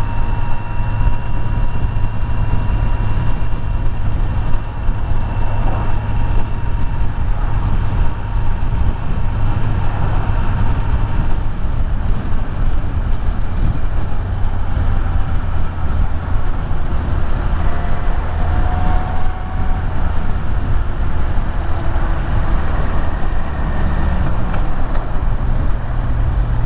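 Kawasaki Z900 inline-four engine running steadily at cruising speed, under a heavy low wind rumble on the microphone.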